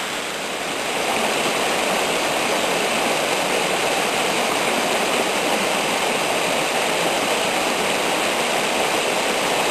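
Steady roar of a waterfall's falling water, growing a little louder about a second in.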